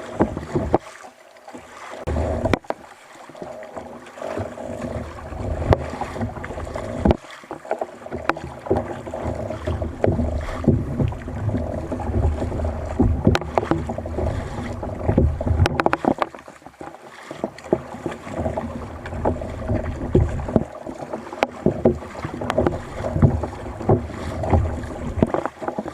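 Water sloshing around a fishing kayak on the sea, with wind buffeting the microphone in gusts and a few sharp knocks.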